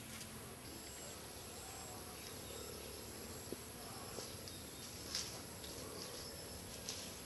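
Tropical forest insects trilling steadily in a high, even chorus. A few soft clicks or crackles break through it, the loudest about five seconds in.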